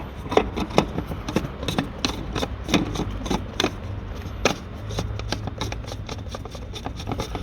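Irregular clicks, knocks and scraping from hands fitting a new oil filter element into its housing and handling the housing cap.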